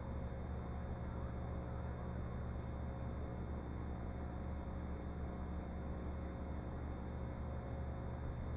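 Low steady hum over faint room tone, with no distinct events.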